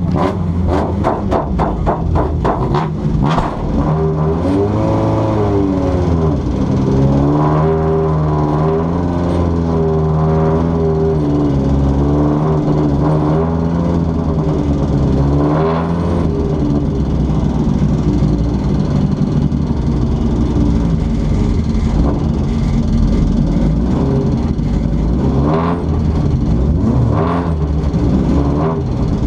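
Honda folkrace car's engine heard from inside its stripped cabin, running at low speed with the revs rising and falling several times as it creeps forward. A quick run of clicks or knocks comes in the first few seconds.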